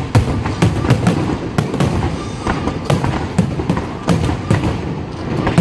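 Fireworks display going off close by: a rapid, dense run of sharp bangs and reports, several a second, over a continuous rumble of shell bursts.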